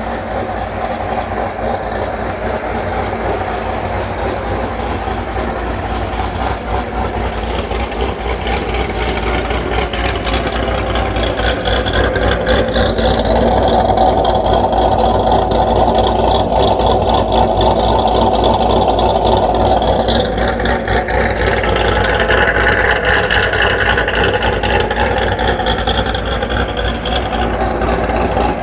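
Built C6 Corvette V8 with headers, a big cam and a loud aftermarket exhaust, heard from inside the cabin while driving. It rumbles steadily and grows gradually louder over the first half as the car gets under way.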